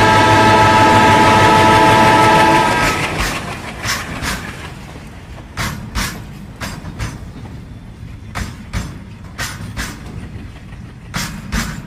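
Diesel locomotive horn holding one long, steady blast that cuts off about three seconds in. Then the clickety-clack of goods-wagon wheels passing over rail joints follows, sharp clicks coming mostly in quick pairs.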